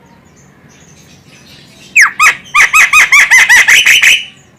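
Javan myna (jalak kebo) calling. After about two seconds of quiet come two harsh notes, then a rapid run of about ten squealing notes at roughly six a second, each bending down in pitch, which stops suddenly.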